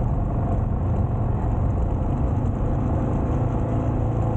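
Yamaha motorcycle engine running at a steady pace while riding over open ground off the road.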